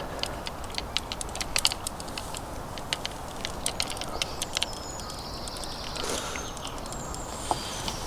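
Scattered light clicks and ticks, irregular and fading out about halfway through, then a high chirping for the last few seconds.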